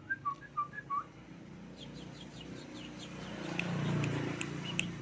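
Asian pied starling (jalak suren) singing: a quick run of short whistled notes in the first second, then softer short chattering notes. A low rushing noise swells in the second half, with a few sharp clicks.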